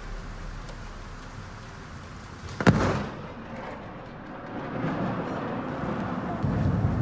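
Rainstorm: a steady rush of rain, broken about two and a half seconds in by one sharp, loud crack of thunder, with the rain growing louder toward the end.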